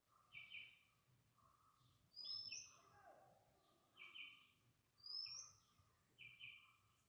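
Birds calling: short double chirps repeat every second or two, and a higher, clearer whistled note sliding downward comes twice, all fairly faint.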